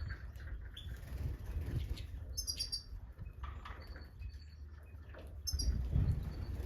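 Short chirping calls of European goldfinches (Stieglitz Major), with two brighter twittering bursts, about two and a half seconds in and near the end, over a low rumble.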